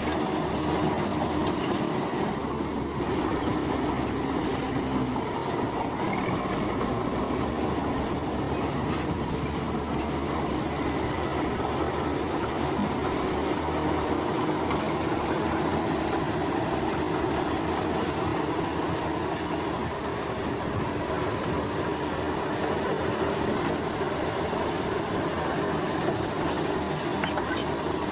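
Komatsu crawler bulldozer at work: diesel engine running under load and steel tracks clanking, a steady din with a thin high squeal throughout.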